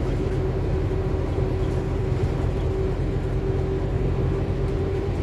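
Scania K280UB4 city bus under way: a steady low engine and road rumble with a constant whine running through it, heard from inside the cabin.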